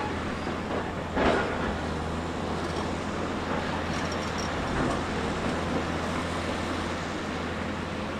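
Bulldozer's diesel engine running steadily, with a sharp knock about a second in, the loudest moment, and a lighter knock near the middle.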